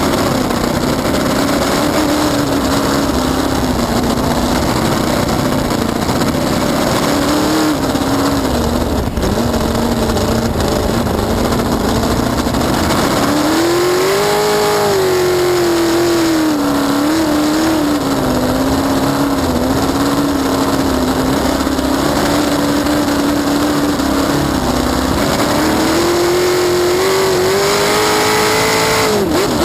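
Cracker box race boat's engine running hard at race speed over a dense rush of noise. Its pitch wavers and climbs twice, about halfway through and near the end, as the throttle changes.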